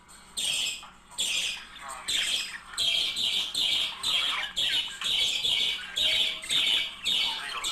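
A pair of budgerigars squawking and chattering: a rapid run of short, harsh calls, about two a second.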